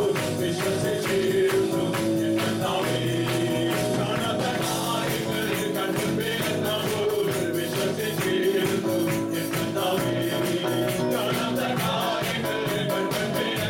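Live praise and worship music: a band playing with voices singing over a steady, quick percussion beat.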